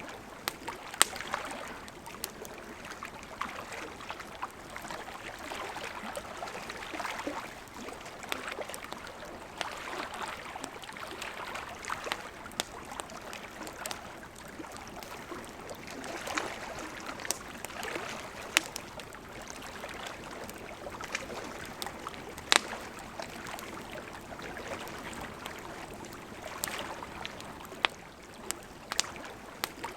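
Campfire crackling, with irregular sharp pops, over small lake waves lapping that swell and fade every few seconds.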